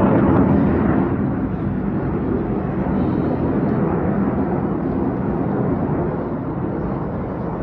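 Jet engine roar from Black Eagles T-50B aerobatic jets passing over, loudest at the start and slowly dying away as they pull off.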